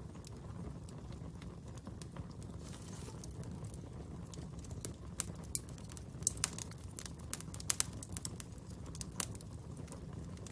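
Fire crackling: scattered sharp pops and snaps, coming thicker in the second half, over a steady low rumble of the burning.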